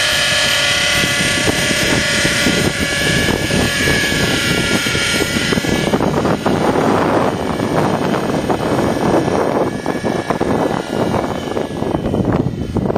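Raptor 50 radio-controlled helicopter's nitro engine and rotor running with a steady high whine in flight. From about halfway, gusts of wind buffet the microphone, a rough fluttering rumble over the engine.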